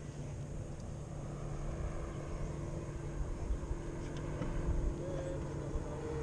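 An engine running steadily at low revs, a constant low hum with rumble.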